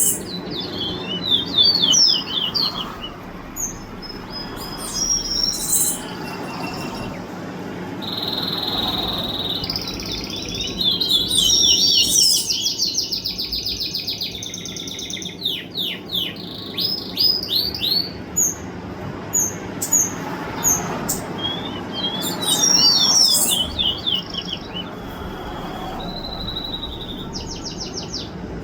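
A small songbird singing in repeated phrases of rapid chirps, trills and sweeping high notes, with short pauses between phrases; the longest phrase runs about ten seconds near the middle.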